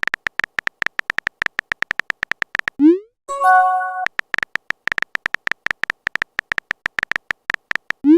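Rapid phone-keyboard typing clicks, then a short rising swoosh of a message being sent and a brief multi-note chime of a message arriving. The typing clicks then resume and end with another send swoosh.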